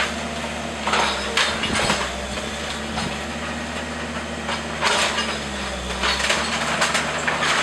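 Wooden house framing cracking and splintering as it is crushed during demolition, in several separate crunches, over the steady hum of a running machine engine.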